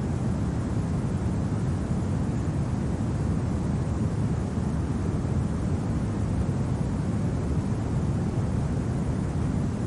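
Steady, low rumbling winter wind, an even noise without gusts or distinct events.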